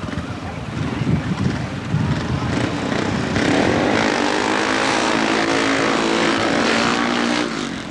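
Speedway bike's single-cylinder methanol engine running rough and low, then revving up about three seconds in and held at high revs as the bike moves off, dropping away near the end.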